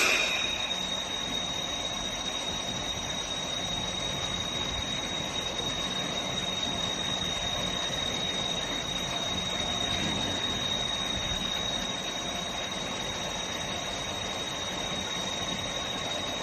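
Flow meter calibration rig running: a steady rush of pumped water and machinery through the pipework, with a constant high-pitched whine over it.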